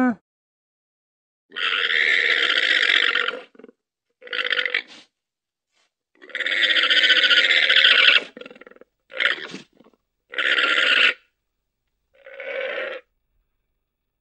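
Llama giving a string of harsh, raspy, gurgling calls without a clear pitch: six of them, separated by short pauses, the longest about two seconds and the last one fainter.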